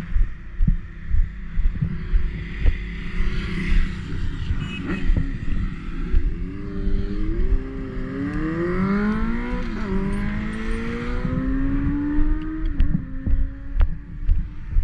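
A vehicle engine accelerating on the road: its pitch climbs for a few seconds, drops sharply at a gear change about two-thirds of the way in, then climbs again. Under it is a steady low rumble.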